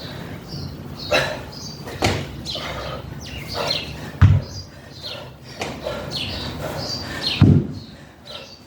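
Two heavy thuds, about four seconds in and again near the end, from the dumbbell landing during dumbbell clean and jerks. Birds chirp repeatedly throughout.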